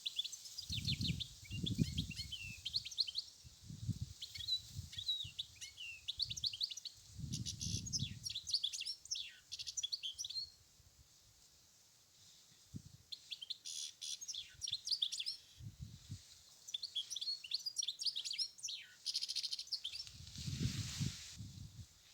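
European goldfinch singing: long phrases of rapid, varied twittering notes, with a pause of about two seconds midway before the song resumes.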